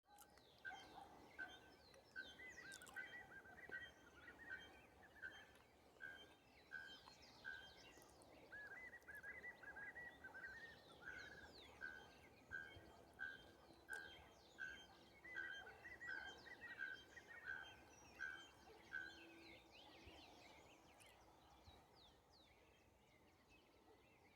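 Bare-throated bellbird (araponga) calling faintly, a long series of short ringing notes about two-thirds of a second apart that stops near the end. Other small birds chirp at the same time.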